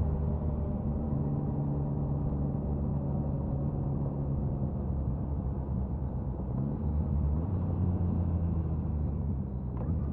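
Suzuki Hayabusa inline-four motorcycle exhaust, heard close from the tail, running at a steady engine speed with only small shifts in pitch.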